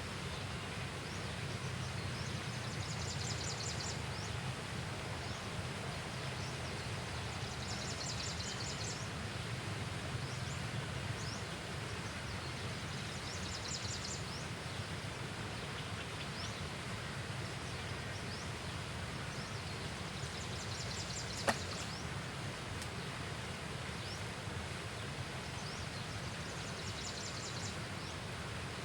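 Steady outdoor ambience with a short, high, rapidly pulsed trill repeating about every five to six seconds, and one sharp click about twenty-one seconds in.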